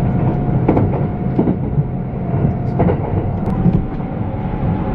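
Passenger train running, heard from inside the carriage: a steady low rumble with a faint steady hum, and a few sharp clacks from the wheels over the track.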